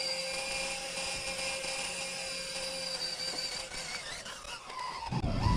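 Small electric motor and gear train of an RC crawler truck whining steadily as it crawls over rocks, the pitch shifting slightly near the end. A loud low rumble comes in just before the end.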